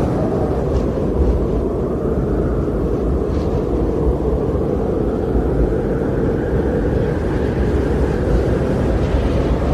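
Deep, steady rushing noise of outdoor nature ambience, unbroken and without distinct events.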